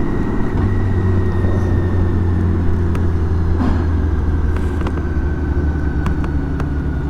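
BMW K1600 GTL's inline-six engine running steadily under way, with wind and road noise. A faint high whine slowly drops in pitch.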